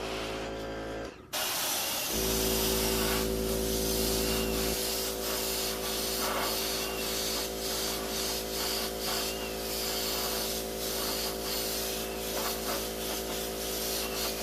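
Airbrush spraying paint: a steady hiss of air and paint that starts about a second in and dips briefly again and again as the trigger is worked, over a constant machine hum.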